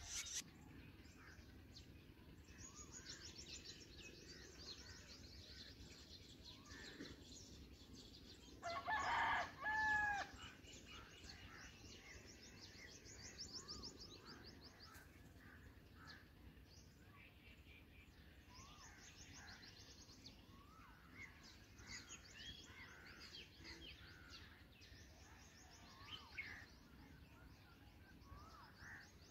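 Faint high-pitched bird chirps and trills, with one louder, longer bird call about nine seconds in.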